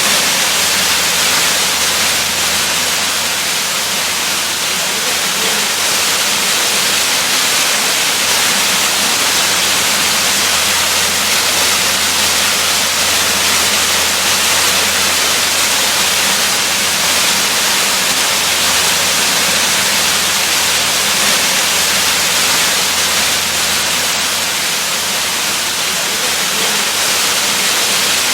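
Waterfall: falling water rushing with a steady, unbroken hiss, brightest in the high end.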